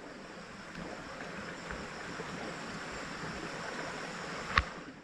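Steady rushing noise of a bicycle being ridden: wind on the microphone and tyres on the road. One sharp click sounds near the end.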